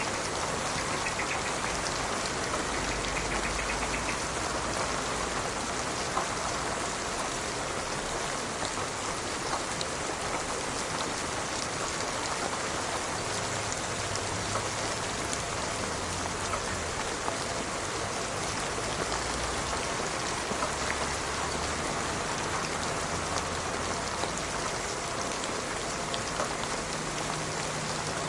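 Steady rain falling, with scattered sharp drop ticks on a surface.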